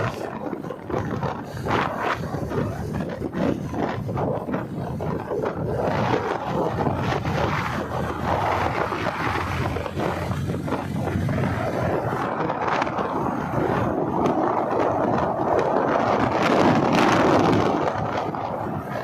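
Wind rushing and buffeting over the microphone of a moving motorcycle, with road noise underneath. It is a steady, noisy rush that swells louder near the end.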